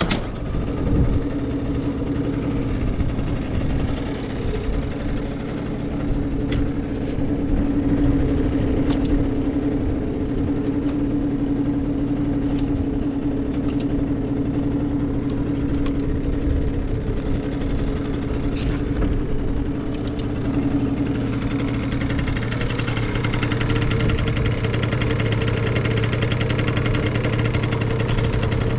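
Yamaha Vino scooter's carbureted two-stroke single-cylinder engine idling steadily, with no abnormal noises. About two-thirds of the way in, the sound gets a little brighter.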